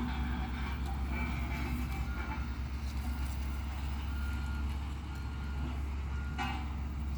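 Heavy diesel road-construction machine running steadily with a deep, even engine drone, with short high beeps now and then.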